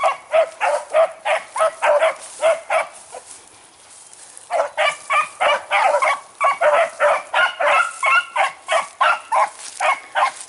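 Beagles baying as they run a rabbit's track, a quick steady string of barks that stops about three seconds in. After a short pause it starts again thicker, with several dogs giving voice together.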